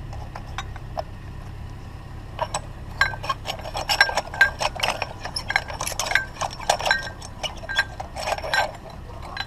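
Glass light bulbs clinking and knocking against each other as they are handled and packed, a quick run of light knocks with short ringing pings starting a couple of seconds in, over a low steady hum.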